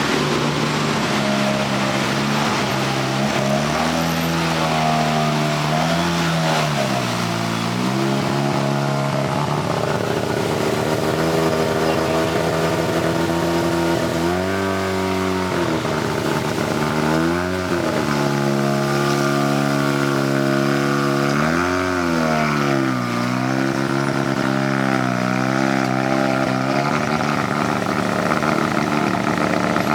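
A car engine idling and revved about six times, each blip rising and falling back in pitch.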